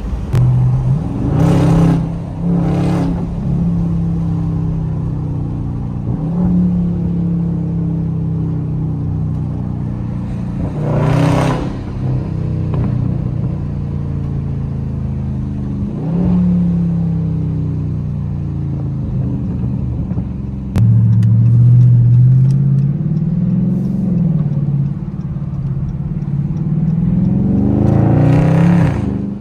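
Dodge Scat Pack's 392 HEMI V8 running through its mid-muffler-deleted exhaust while driving: engine pitch rises and falls again and again as it accelerates and eases off, with a few short, loud blasts of revving, and it gets louder in the last third.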